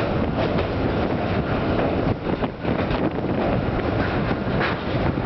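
Passenger train running across a steel truss bridge, heard from beside the carriage window: a steady rumble of wheels on the rails with wind buffeting the microphone and scattered sharp clicks.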